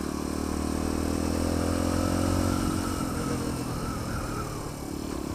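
Sinnis Apache 125 single-cylinder motorcycle engine running under way, holding a steady note, then easing off about three seconds in.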